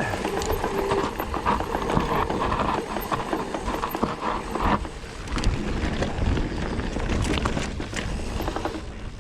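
Mountain bike riding down a rough dirt trail: tyres rolling over dirt and rock with a rumble, and the bike rattling with quick irregular knocks and clatter.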